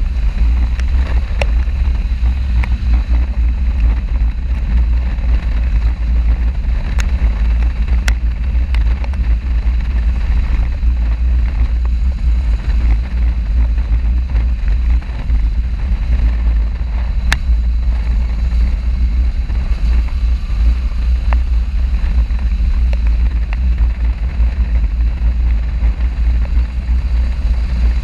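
Wind buffeting a camera microphone on a moving motorcycle: a loud, steady low rumble with a few faint ticks.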